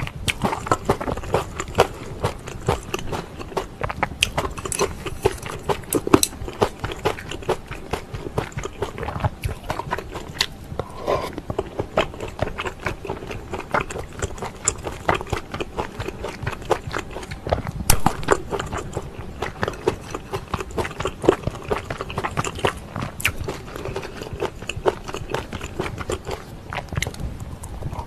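Close-miked eating sounds: wet chewing, lip smacking and mouth clicks of a person eating pork and kimchi stew, irregular and continuous, with one sharper knock about two-thirds of the way through.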